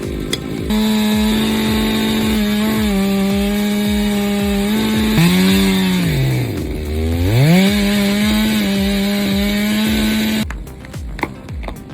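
Two-stroke chainsaw running at high revs while cutting. About two-thirds of the way in, the engine speed sags sharply as the chain bogs down in the wood, then climbs back. The saw stops suddenly near the end.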